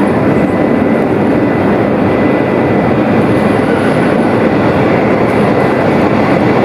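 Berlin U-Bahn Class H01 train pulling out of an underground station: loud, steady running noise with a thin, steady high tone over it.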